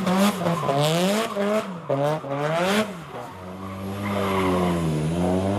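Car engine revved hard over and over, its pitch rising and dropping several times in quick succession, with tyre-screech hiss as in a burnout or drift; from about three seconds in the engine holds steadier revs.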